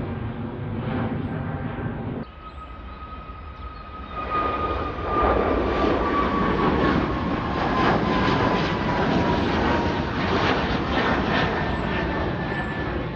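A jet airliner departing: a loud engine roar builds about four seconds in and holds, with a high whine that slowly falls in pitch as it passes. Before that, a steady engine hum cuts off abruptly about two seconds in.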